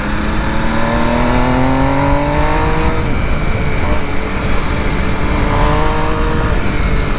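Sport motorcycle engine accelerating on a track: the pitch climbs for about three seconds, drops at a gear change, then climbs again near the end, over steady wind rush.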